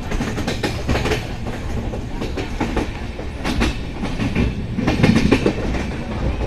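Passenger train coach running at speed: a steady rumble of wheels on rails with bunches of clacks as the wheels cross the track joints, loudest about five seconds in, heard from the side of the moving coach.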